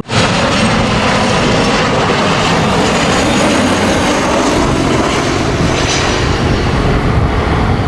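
Jet airliner engines running with a loud, steady roar that starts abruptly.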